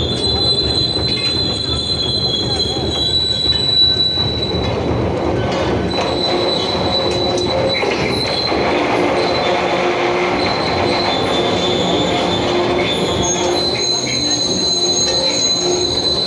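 Train running past on the rails, with a continuous rumble of wheels and carriages and a high, steady metallic wheel squeal over it.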